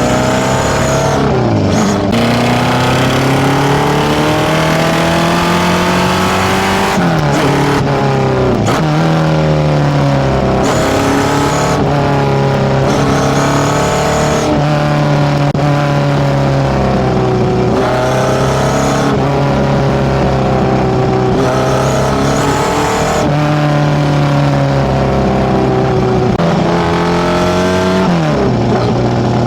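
Tuned Datsun A15 inline-four with FCR41 carburettors, running loud through a one-off 54 mm stainless exhaust. Its pitch climbs again and again, each time dropping back sharply or holding steady for a few seconds.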